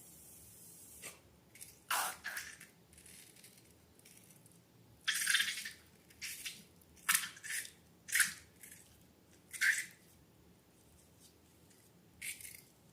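Slime being squished and handled: a series of short, wet, sticky squelches, about eight in all, with the longest one near the middle.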